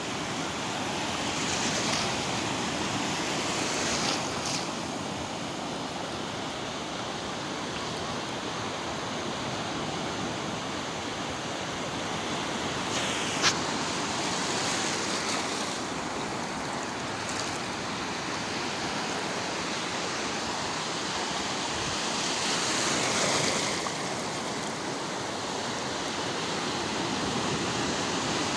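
Small ocean waves washing onto a sandy beach and drawing back, a steady surf hiss that swells and eases every few seconds. A single sharp click about halfway through.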